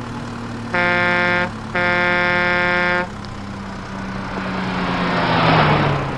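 A vehicle horn honks twice, a short blast and then a longer one, over a steady engine hum. A rising whoosh follows, swelling near the end as the engine pitch drops away.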